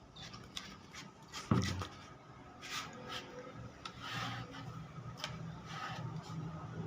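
Hand rubbing strokes across a wooden surface, repeated at an uneven pace, with one sharper knock about a second and a half in.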